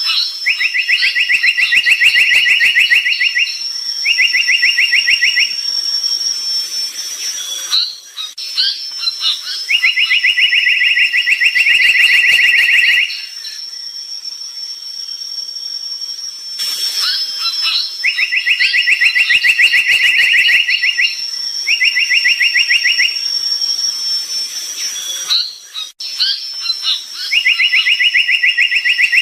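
Brown tali pocong bird singing: a few short high notes, then rapid even trills lasting a second or more each. The same phrase pattern recurs about every eight or nine seconds. A steady high-pitched whine runs underneath.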